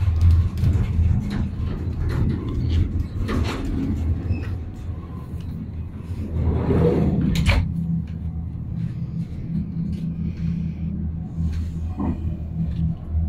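Steady low rumble of a moving ICE 1 high-speed train heard from inside the carriage, with a few knocks and a brief clatter about seven seconds in.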